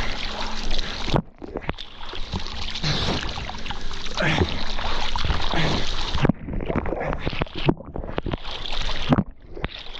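Water rushing and splashing loudly over a waterproof action camera's microphone, with the sound suddenly dulling and dropping away several times.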